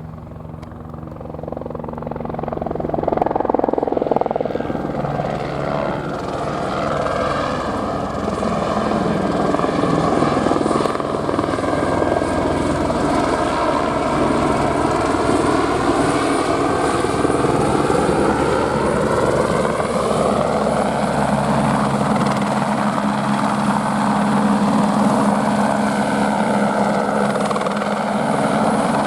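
Airbus AS350 helicopter flying close, its rotor and turbine growing louder over the first few seconds and then holding steady. The rushing sound has a hollow tone that sweeps slowly up and down as the helicopter moves.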